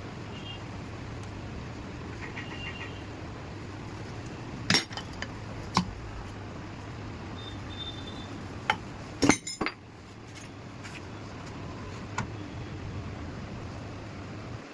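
A handful of sharp metallic clinks and knocks, with the loudest cluster about nine seconds in, over a steady low hum. It is typical of tools or parts being handled against metal during a car repair.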